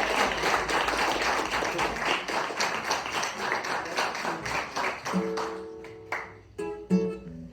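Audience applause that fades over the first five seconds. Then a strummed acoustic string instrument sounds two chords, about five and seven seconds in, each left to ring.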